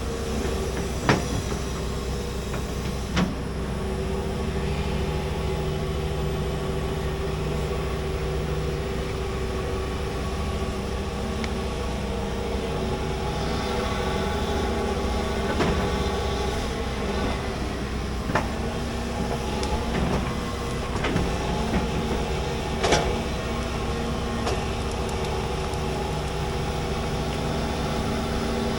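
Large excavator running steadily under work, its engine and hydraulics holding a constant drone with a few held tones shifting now and then, broken by several sharp knocks spread through the stretch.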